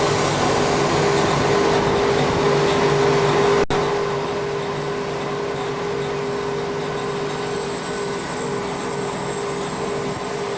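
Steady mechanical drone of an airliner's flight deck with the auxiliary power unit running: air-conditioning and equipment fans with a steady hum. There is a sharp dropout in the sound a little under four seconds in, after which it is slightly quieter.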